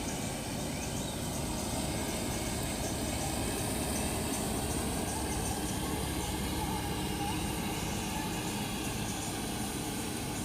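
Harvesting machine's engine and works running steadily, a constant mechanical drone with a hiss over it.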